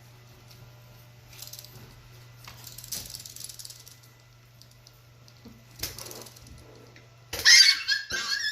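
Faint rattling and scuffling over a low steady hum, then about seven seconds in a Chihuahua puppy lets out a sudden loud, high yelp and yips, startled.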